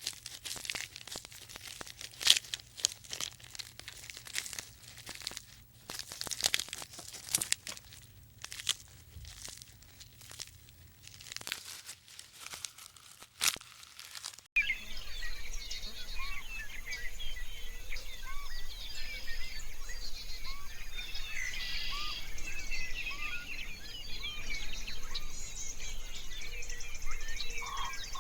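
Irregular crunching and crackling clicks. About halfway through, an abrupt cut brings in a dense chorus of many small birds chirping over a steady outdoor hiss.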